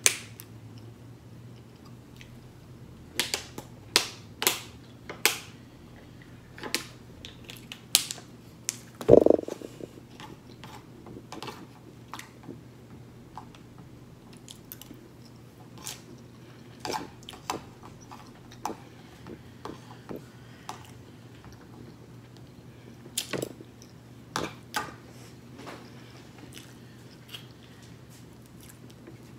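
Close chewing and mouth noises of a person eating pork chop and rice by hand, with scattered sharp clicks and one louder low thump about nine seconds in.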